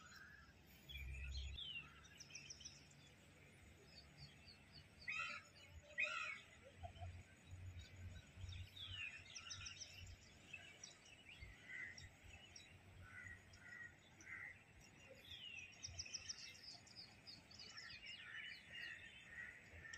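Faint chirping and twittering of small birds, short calls and trills repeating throughout, with two sharper calls standing out about five and six seconds in.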